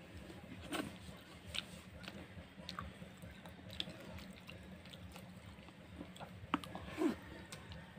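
Close-up eating sounds of rice soaked in water eaten by hand: chewing with scattered soft clicks and wet squishes from the mouth and from fingers mixing the rice in a steel bowl, with a couple of sharper smacks near the end.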